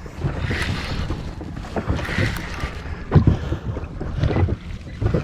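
Wind on the microphone and water washing against a small inflatable boat, with a few dull knocks in the second half.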